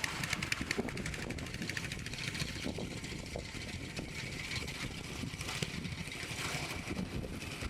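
Beachside outdoor ambience: a steady low rumble of wind, with a fine crackling hiss over it and a faint steady high tone through the middle.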